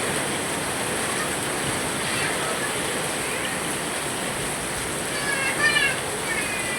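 Heavy rain pouring steadily, with a high voice calling out briefly about five seconds in.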